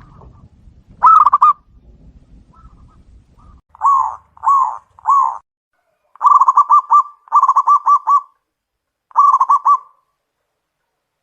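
Zebra dove (perkutut) song: a short purring trill about a second in, then three short coos followed by three rolling, trilled cooing phrases.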